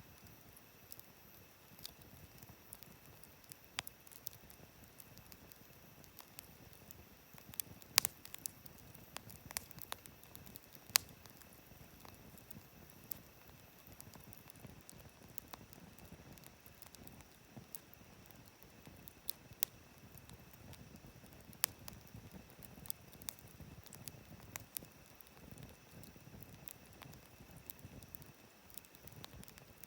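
Wood campfire crackling: irregular sharp pops and snaps at no set rhythm, a few much louder than the rest, over a soft low hiss of burning.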